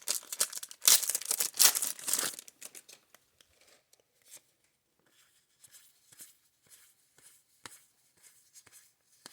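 A baseball card pack's plastic wrapper being torn open and crinkled for about two seconds. After that come faint, scattered light clicks of cards being handled.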